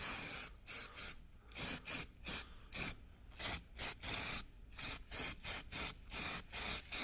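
Hand rubbing or filing strokes on a steel repair panel, a short rasp roughly twice a second, each stroke separated by a brief pause.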